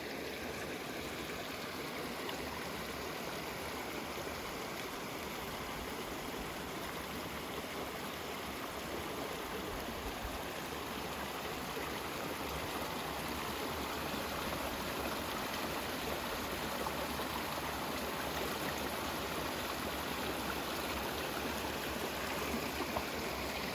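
River flowing, a steady rushing of water over rocks.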